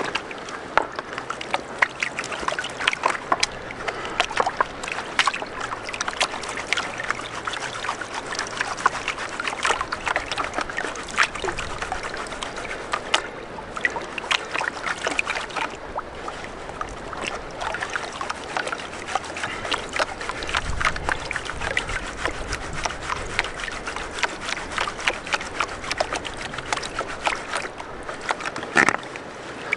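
Gravel and stones clicking and rattling in running, sloshing water as river dirt is washed for gold. The clicking is dense and continues throughout, with a low rumble about two-thirds of the way in.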